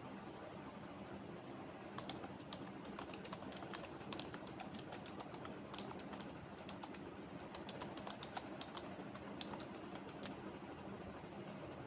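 Typing on a computer keyboard: a run of quick, uneven keystroke clicks starts about two seconds in and stops shortly before the end, over a steady low background hum.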